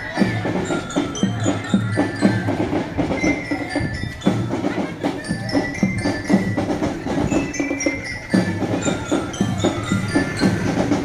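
Marching drumband playing: snare and bass drums beat a steady rhythm while a marching bell lyre rings out a melody in short, high notes.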